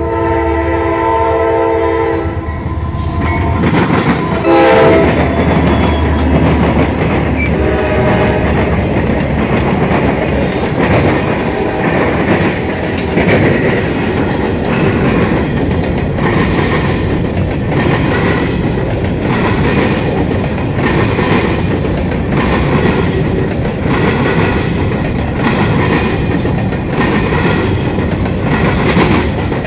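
Freight train's diesel locomotive horn ending a long blast about two seconds in, then two short blasts. Then the freight cars roll past, their wheels clattering over a railroad diamond crossing in an even, repeating clack.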